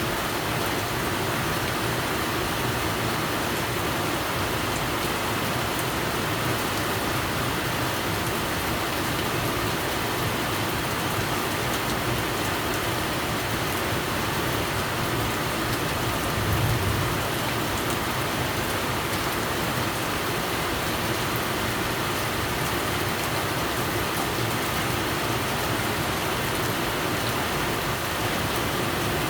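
Steady rain falling, an even hiss with no breaks. About two-thirds of the way through comes a brief low rumble.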